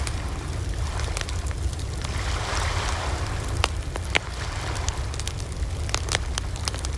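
Wood campfire burning, with scattered sharp crackles and pops over a steady low rumble; a soft hiss of flame swells a couple of seconds in, then dies back.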